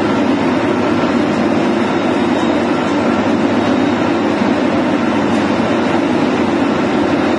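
Concrete mixer truck's diesel engine and turning drum running steadily while it discharges concrete down its chute, a loud, unbroken machine noise.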